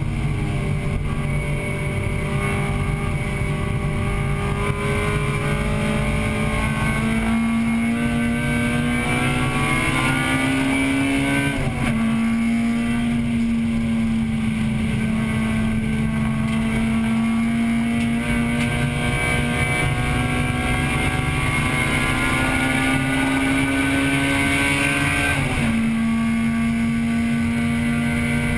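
1998 Acura Integra Type-R's 1.8-litre VTEC four-cylinder at full throttle, heard from inside the cabin. Its pitch climbs slowly and drops sharply twice, about 12 and 26 seconds in, with the shift to a higher gear. Steady road and wind noise runs underneath.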